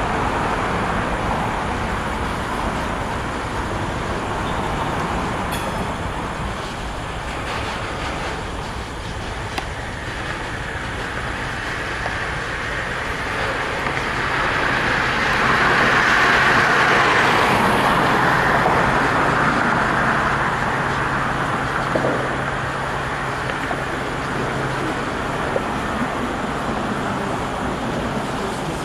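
Freight train cars rolling past, a steady rush and rumble of wheels on the rails. It swells louder for a few seconds in the middle, when a low steady hum joins in for about ten seconds.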